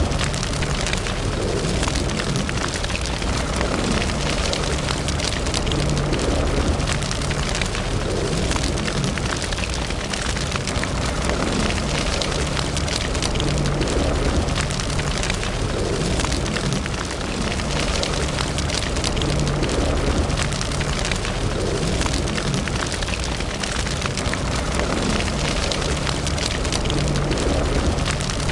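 Wood fire burning in a fireplace, a steady rush with dense crackling and popping throughout.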